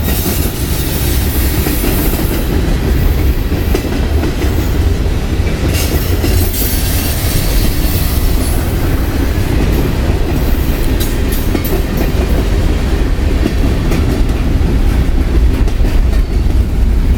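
Long freight train rolling past close by: a steady heavy rumble of cars and wheels on the rails, with clickety-clack and a few sharp clanks from the passing railcars.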